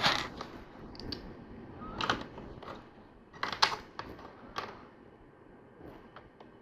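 Small plastic LEGO pieces clicking and clattering as they are handled and pressed together, a handful of separate clicks spread out over several seconds.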